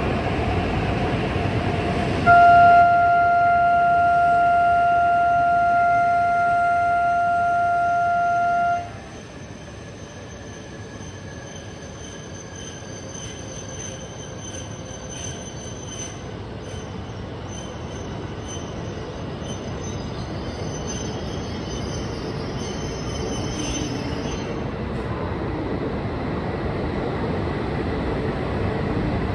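Tohoku Shinkansen train noise. About two seconds in, one long steady horn blast sounds for about six seconds and then cuts off. A quieter rumble of the train follows and slowly grows louder.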